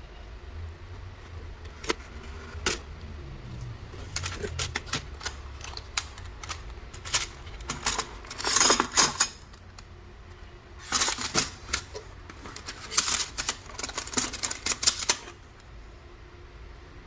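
Irregular clicks, taps and short rustles of parts and packaging being handled, coming in clusters through the middle and later part, over a low steady hum.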